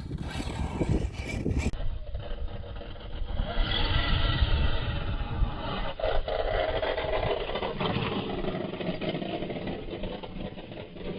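Losi Baja Rey 1/10 scale electric RC trophy truck driving, its motor whine rising and falling with the throttle over a running rumble from the tyres and chassis.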